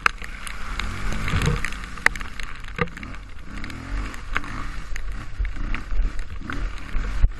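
Dirt bike engine revving up and down while riding a trail, with scattered sharp knocks and clatter over it.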